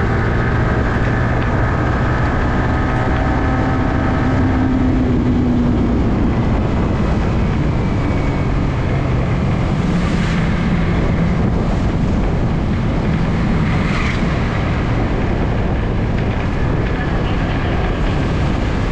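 Yamaha R15's single-cylinder engine running steadily while the motorcycle rides along, with wind and road noise on the bike-mounted microphone.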